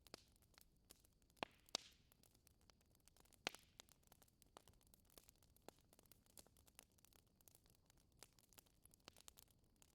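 Wood fire crackling in a fireplace: faint, irregular crackles with a few louder pops, two close together about a second and a half in and another about three and a half seconds in.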